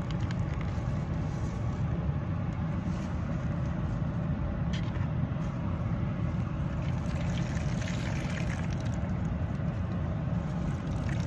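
Steady low vehicle rumble, even throughout, with a few faint clicks about five and eight seconds in.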